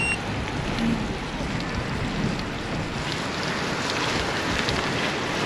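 Steady wind rushing over the microphone together with road noise from bicycle tyres while riding in a group. A short high beep sounds right at the start.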